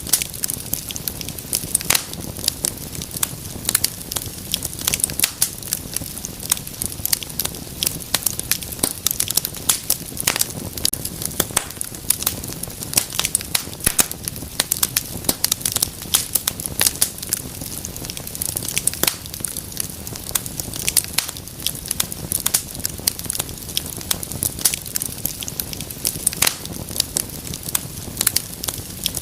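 Wood fire in a fireplace crackling and popping continuously, with many sharp, irregular snaps over a low steady rumble of flame.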